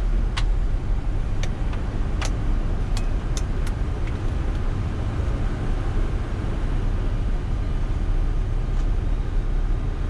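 Flight-deck noise of a Boeing 747-400ERF in flight on approach: a steady, deep rumble of airflow and engines. Several sharp clicks come in the first four seconds, and a faint one comes near the end.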